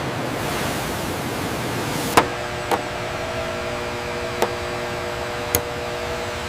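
Factory ambience: a steady hiss, then after about two seconds a steady machine hum with four sharp clicks or knocks, the first the loudest.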